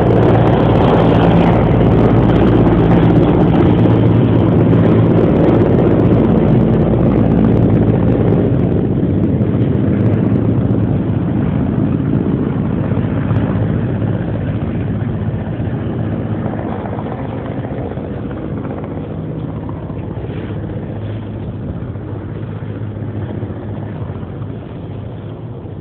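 Helicopter running with a steady mechanical drone, growing gradually quieter through the stretch.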